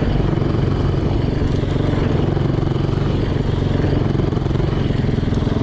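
Yamaha YZ450 single-cylinder four-stroke dirt bike engine running steadily with a rapid, even firing pulse. The motor is freshly rebuilt and still being broken in.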